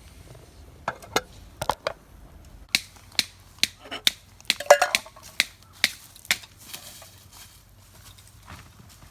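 About a dozen sharp, irregular clicks and knocks over roughly five seconds, from cooking gear being handled; one knock near the middle rings briefly.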